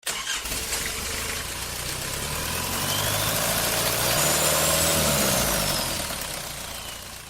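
A motor running steadily, its pitch and loudness rising to a peak about two-thirds of the way through, then easing off.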